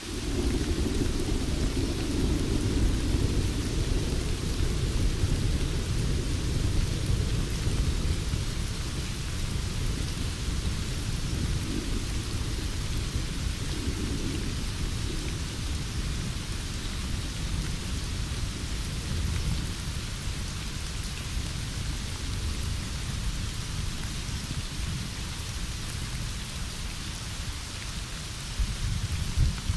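Heavy rain falling steadily, with a long rumble of thunder that breaks in suddenly and slowly fades. A fresh thunder rumble starts near the end.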